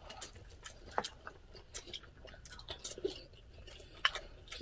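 Close-up eating sounds: chewing of fried rice, with a few sharp clicks of a wooden spoon and chopsticks against the pot and bowls.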